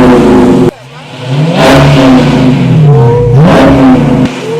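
Car engine revved through an exhaust with its mid muffler deleted: the pitch climbs and falls back in two rev blips. The sound cuts out abruptly under a second in and again just before the end.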